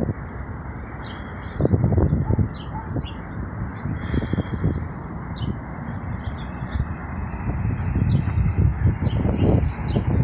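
Outdoor ambience: birds chirping now and then over a steady high-pitched insect drone, with wind buffeting the microphone in gusts.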